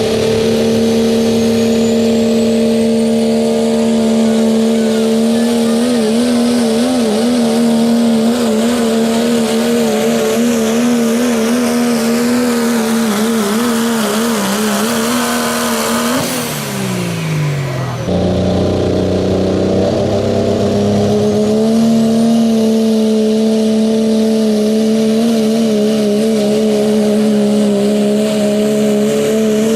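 Diesel pickup pull truck's engine held at full throttle under load, a steady high-revving note that wavers in pitch during the run. About 16 seconds in the revs fall away. Two seconds later a second steady full-throttle run cuts in abruptly.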